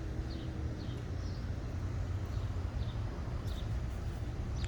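A steady low outdoor rumble, like distant traffic, with small birds giving short, high chirps every second or so over it.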